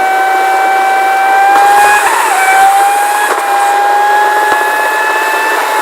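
A steady, high motor whine with a few overtones, rising slightly in pitch, with a brief wobble about two seconds in.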